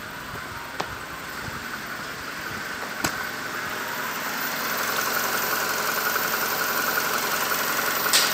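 Honda CR-V's 2.0-litre K20A4 four-cylinder petrol engine idling steadily. It grows louder over the first few seconds as the sound shifts from the tailpipe to the open engine bay. Two sharp clicks come about a second and three seconds in.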